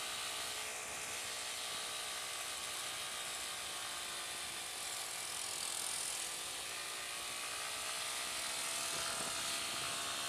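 Honda CB150R's single-cylinder engine running steadily under load while climbing a steep hill, its note drifting slightly, with wind noise over the rider's microphone.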